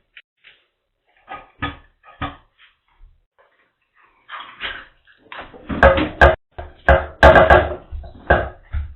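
Knocks and rattles: a few scattered light knocks at first, then about halfway through a louder, dense run of bumping and clattering with sharp clicks.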